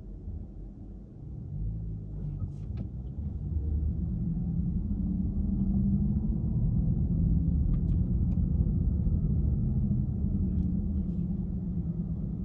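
Low rumble of a car's engine and tyres while driving. It grows louder over the first few seconds, then holds steady, with a few faint ticks.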